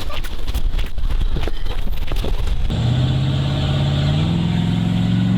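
Rumbling noise with scattered knocks, then about halfway through a car engine's steady drone comes in and steps up in pitch about a second later.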